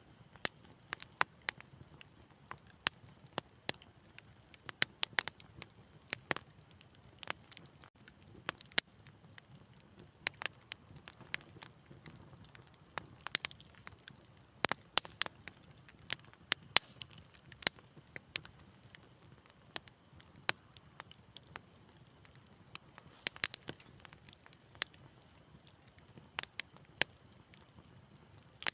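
Wood fire in a fireplace crackling: irregular sharp pops and snaps, several a second at times, over a soft low hiss of the flames.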